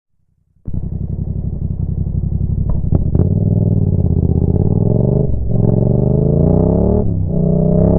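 Yamaha MT-07's 689 cc parallel-twin engine, breathing through a Roadsitalia exhaust with the db killer removed, catching and starting suddenly after a brief crank. It idles with a few sharp cracks near three seconds, then is revved up repeatedly, the pitch climbing and falling back twice.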